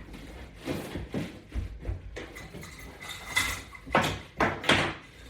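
Scattered soft thumps and knocks, irregularly spaced, with a few stronger strokes near the end: a person shifting on an exercise mat while working with resistance-band straps.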